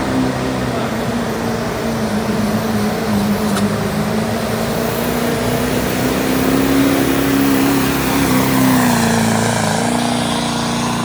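Chevrolet 3500 diesel pickup's engine wound up to high revs, pulling under load down the track; the pitch holds high and steady, then drops a step near the end.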